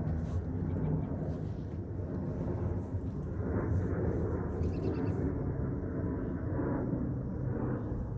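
Monster truck engine running with a steady low rumble.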